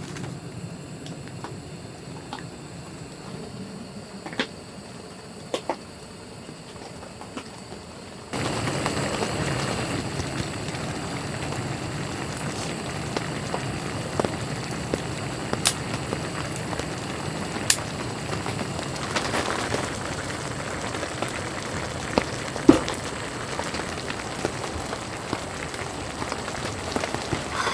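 Steady patter of rain with scattered sharp drip ticks, becoming suddenly louder about eight seconds in.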